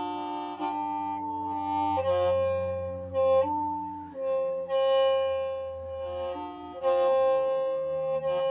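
Qeej, the Hmong bamboo free-reed mouth organ, being played: several reed pipes sound together in held notes that step to new pitches every second or so, over a low steady drone.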